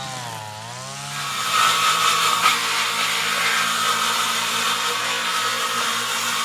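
Gas string trimmer's small two-stroke engine, a 26cc multi-tool trimmer, wavering at low revs, then opening up about a second in and running steadily at full throttle.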